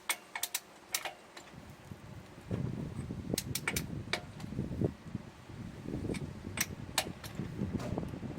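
Truck tire-changing work: a few sharp metallic clicks, then from about two and a half seconds in irregular scraping, rumbling and knocking of tools and the tire being handled.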